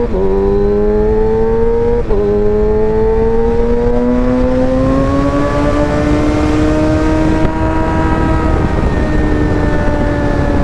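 Motorcycle engine under way, heard through a helmet-mounted mic: two quick upshifts, one at the start and one about two seconds in, then the engine note climbs gradually and settles into a steady cruise, over a constant rumble of wind and road noise.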